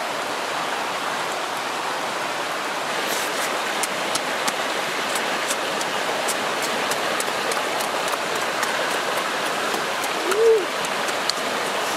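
Close-up eating sounds of chicken heads being chewed: many small sharp mouth clicks and crunches from about three seconds in, over a steady rushing background noise. A brief voiced 'mm' about ten seconds in.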